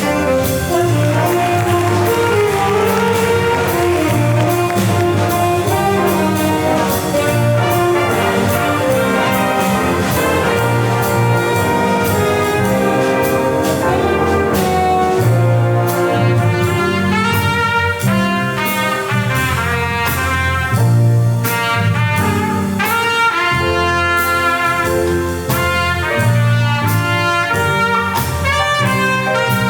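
Jazz band playing: trumpets, trombones and saxophones carry the tune over a steady bass line and drums with cymbals.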